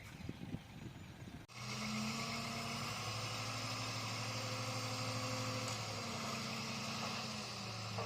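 Heavy diesel engine of earthmoving equipment running steadily. It starts abruptly about a second and a half in, its speed rises slightly about three seconds in and eases back near six seconds.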